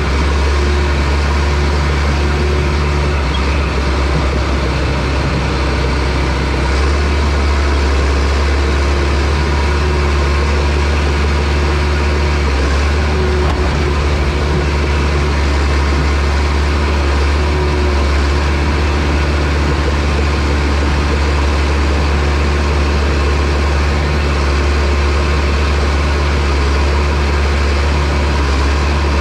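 Diesel engine of a John Deere bulldozer running steadily with a deep, even hum, its pitch shifting slightly about seven seconds in.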